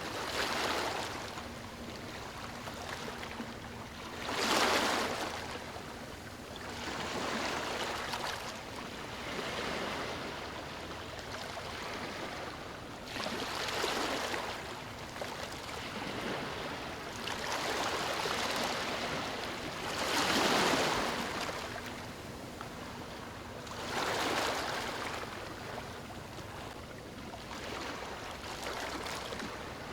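Ocean waves breaking and washing up a beach, a swell of surf every three or four seconds that rises and falls away.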